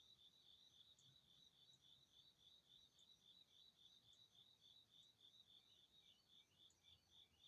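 Faint, steady chirping of a cricket, an even train of short high chirps at about four a second.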